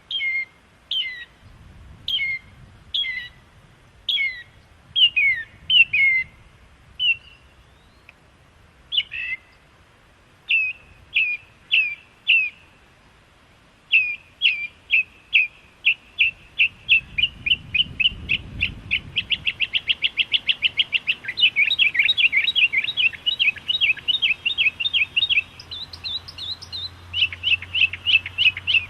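A songbird singing: clear whistled notes sliding downward, about one a second, that speed up about halfway through into a rapid, fast-repeating trill.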